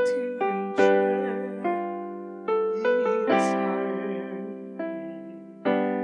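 Piano playing slow, sustained chords, each struck and left to ring and fade before the next.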